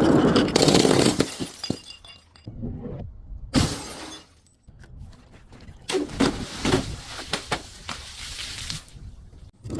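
Glass bottles breaking and shattering, with crunching shards. There is a loud crash at the start, another about three and a half seconds in, and a run of sharp cracks around six to seven seconds.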